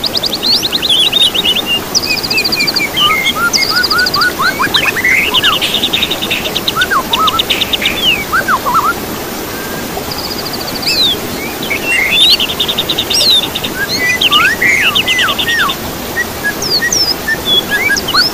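Songbirds singing: fast, buzzy trills high up, mixed with short chirps and quick rising and falling whistled notes, over a steady background hiss.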